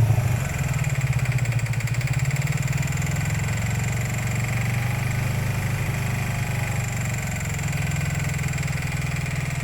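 Racing motorcycle engine idling steadily, with a fast, even pulse.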